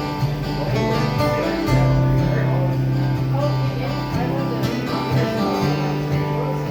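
Country-style instrumental intro on guitars: chords with a lead guitar line over them, the bass notes changing every second or two.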